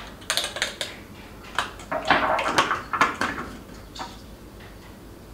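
Kitchen clatter of dishes and utensils being handled, in several bursts that die down near the end.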